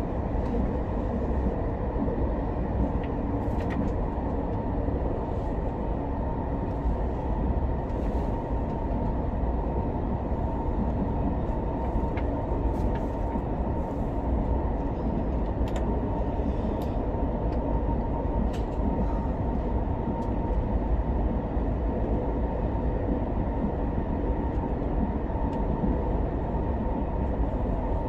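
Steady running noise heard inside the passenger cabin of an SRT high-speed train (SR Class 120000 EMU) in motion: a dense, even rumble with a faint steady whine and a few light clicks.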